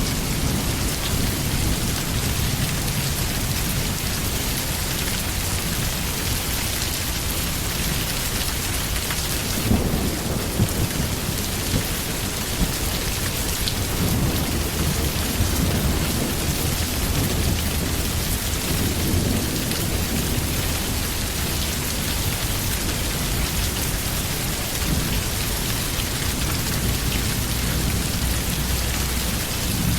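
Steady heavy rain with a low thunder rumble underneath, and a few sharper hits about ten seconds in.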